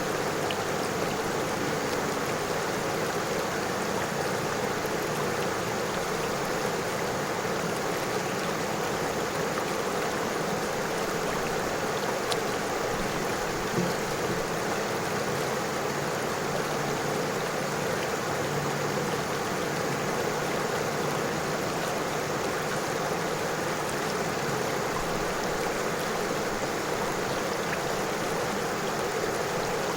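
River water flowing over stones, making a steady, even sound with no breaks.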